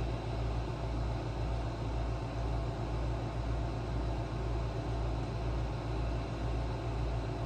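Steady low machine hum with an even hiss over it, pulsing slowly in the bass and unchanging throughout.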